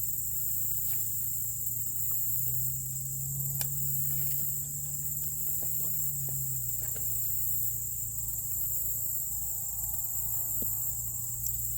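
Insects buzzing steadily in a high-pitched chorus. A low hum swells for a few seconds in the middle, with a few faint clicks.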